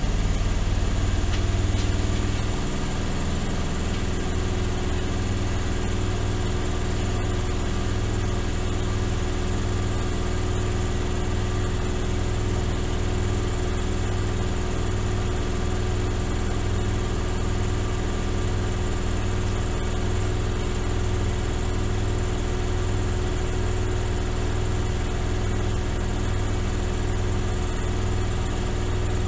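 Miele Softtronic W3923 front-loading washing machine spinning its drum at a steady speed: a strong low rumble with a steady motor whine, easing slightly about two seconds in and then holding level.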